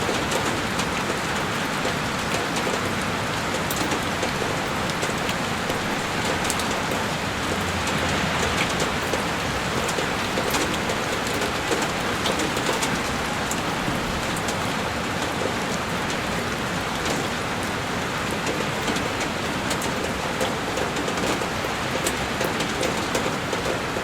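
Heavy rain falling steadily on a window pane, a dense even hiss with scattered sharper drop ticks.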